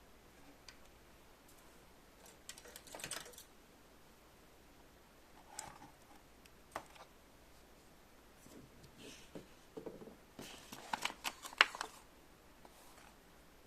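Light clicking and rattling of small hard pieces being handled, likely toy train parts, coming in a few short clusters with the busiest and loudest run near the end.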